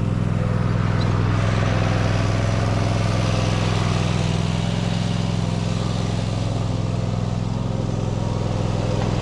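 Yamaha Moto 4 200 ATV's single-cylinder four-stroke engine running steadily at an even speed.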